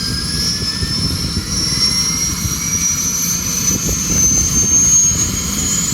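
Helicopter turbine engine running with a high whine that slowly rises in pitch, over a steady low rumble: the engine spooling up.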